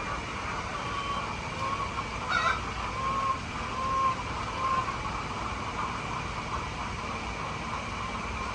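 Chickens clucking, a handful of short calls in the first half, over a steady background hum.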